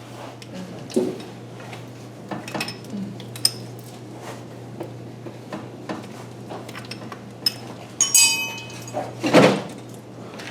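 Metal hand tools clinking and knocking against metal, with a ringing metallic clank and a heavier knock near the end, over a steady low hum.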